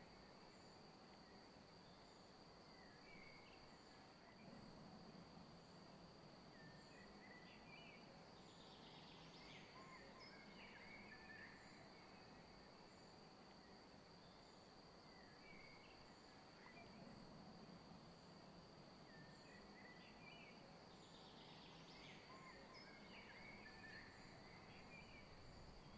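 Near silence: faint outdoor garden ambience with distant birds chirping in short scattered phrases over a steady faint high whine.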